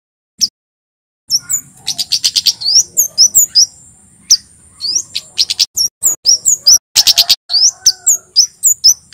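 Male kemade, a flowerpecker, singing a dense, loud run of short, sharp high chirps, rising upswept notes and rapid ticking clusters, over a thin held high whistle. The song starts about a second in after a near-silent moment with one short note.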